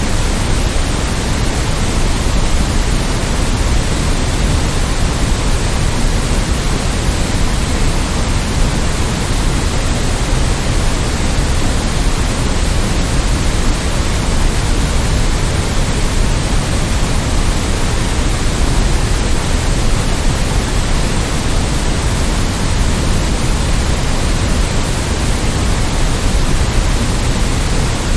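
Continuous white-noise sleep track: an even, unchanging hiss, heavier in the bass than in the treble.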